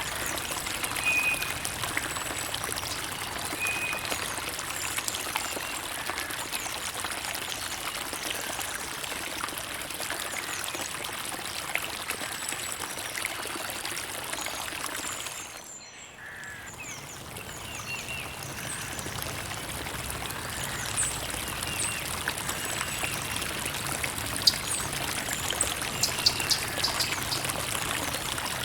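Creek water trickling and running steadily, briefly dipping in level just past the middle. A few short high chirps sound over it near the end.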